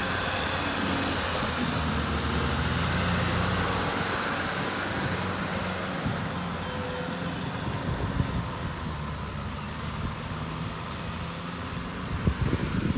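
Kubota tractor's diesel engine running steadily while plowing, with a few knocks and rattles near the end.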